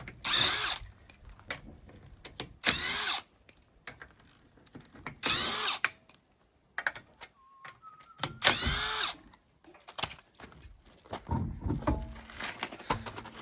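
A cordless power tool spinning the car's wheel bolts in four short bursts, each about half a second long and about two and a half to three seconds apart, with lighter clunks of tools and parts between them.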